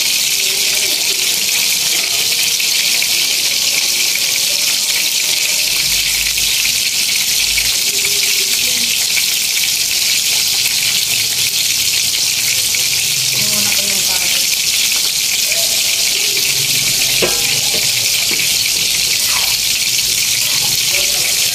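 Pancit noodles, meat and vegetables sizzling in a large wok, a steady hiss, with a couple of light knocks of a utensil against the pan near the end.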